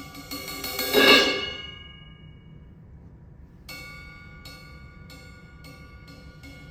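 Live percussion playing: a crash swells to a loud peak about a second in and rings away, then from near four seconds a run of struck, ringing pitched notes at about three strokes a second.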